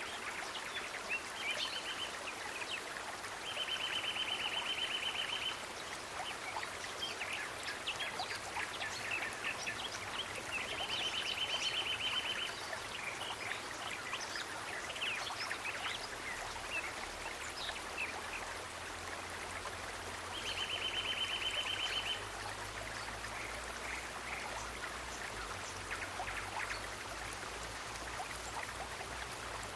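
Running water, a steady hiss of a stream or trickle, with an animal's trilling call about two seconds long repeated four times and many short scattered chirps.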